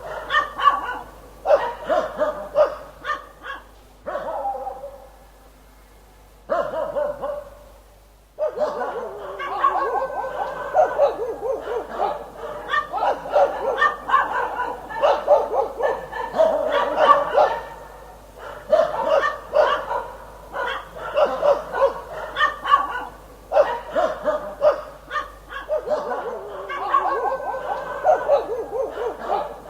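Dog barking in rapid, almost continuous runs of barks, with a lull of a few seconds about five seconds in.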